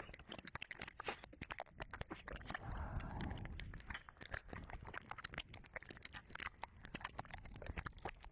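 Wet licking and mouth sounds close to a 3Dio binaural microphone's ears: dense, irregular wet clicks and smacks, with a breathy stretch about three seconds in.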